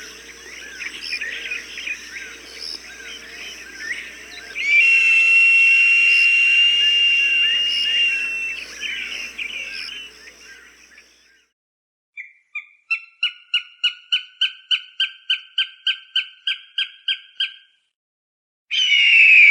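Bird-repelling hawk-call recording: small birds chirping busily with one long, steady whistled note, then a rapid series of about twenty sharp calls at roughly four a second, and near the end a loud, harsh, falling hawk scream.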